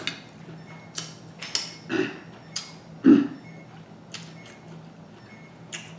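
Close-miked mukbang eating sounds: chewing with a scattered run of wet mouth clicks and lip smacks, and two short, louder mouth noises about two and three seconds in.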